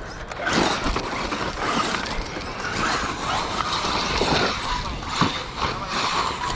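Radio-controlled cars driving hard: small electric motors whining and drivetrains rattling, with wheels scrabbling over the ground.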